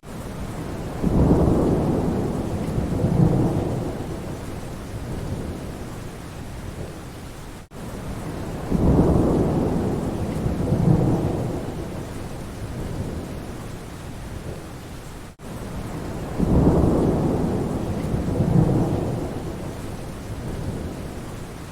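Rain falling steadily under rolls of thunder. The same rumble, swelling twice and fading, comes three times about eight seconds apart with a brief dropout between, a short recording played on a loop.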